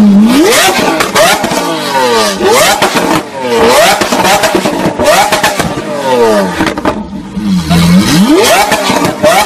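Sports car engine revved hard again and again, its pitch climbing fast and falling back each time. Near the end it settles briefly at a low idle before climbing steeply once more.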